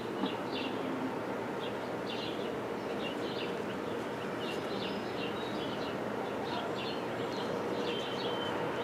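Small birds chirping in short, irregular bursts over a steady background hiss.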